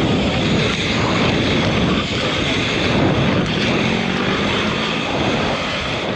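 Wind rushing over the microphone of a camera carried on a BMX bike at race speed: a loud, steady rush.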